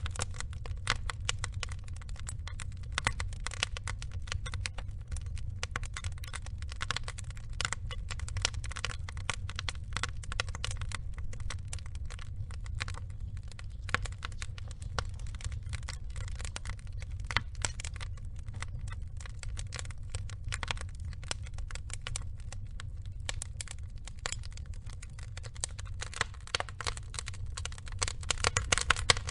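Log fire burning, with a constant, irregular crackle of small pops and snaps over a low steady rumble. A few louder snaps come near the end.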